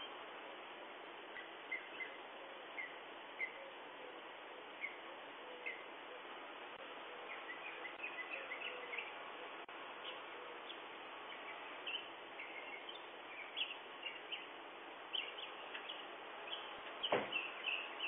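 Birds chirping in short, scattered calls over a steady hiss, heard through a doorbell camera's microphone; the chirps come more often in the second half. A single sharp knock sounds near the end.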